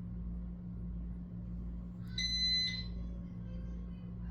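A single high electronic beep lasting about half a second, a little past halfway, over a steady low hum.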